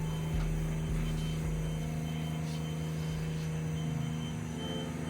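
Car engine running steadily at low revs, a constant low hum with a deeper rumble underneath for the first couple of seconds.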